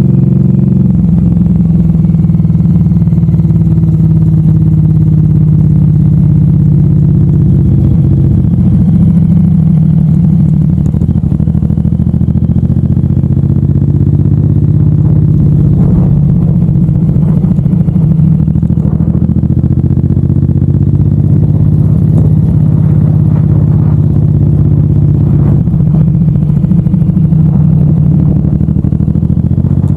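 Suzuki M109R's V-twin engine running loud and steady while riding, its pitch dipping and rising gently with the throttle, heard from a handlebar-mounted camera.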